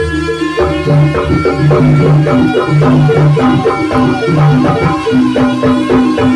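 Live jaranan (kuda lumping) accompaniment: a traditional Javanese ensemble of drums and tuned percussion playing a steady, loud rhythmic pattern of repeated pitched notes.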